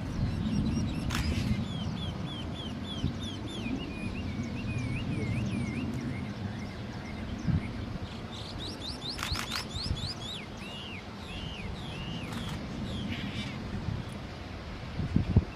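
A songbird calling in two runs of short, quickly repeated slurred notes, two to three a second, separated by a pause of a couple of seconds, with a few sharp clicks among them. A low rumble of background noise runs underneath.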